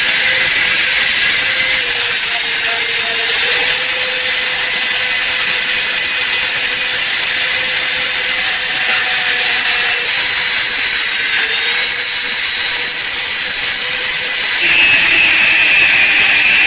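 Small abrasive power tool running steadily against metal, a continuous rasp over a steady motor hum; about fifteen seconds in, its whine shifts to a higher, louder pitch.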